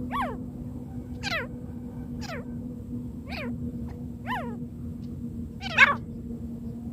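Francolin (teetar) calling: six short notes that each slide down in pitch, about one a second, the last one loudest. The notes play over a steady low hum.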